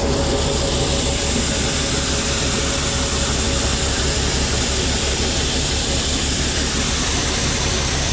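Shelled corn pouring out of a grain truck's opened hopper door into a receiving pit, a steady rushing hiss that comes up as the flow starts, over the steady low drone of running machinery.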